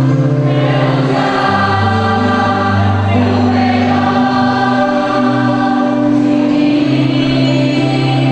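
A choir singing a gospel song with instrumental accompaniment, holding long notes over a steady bass line.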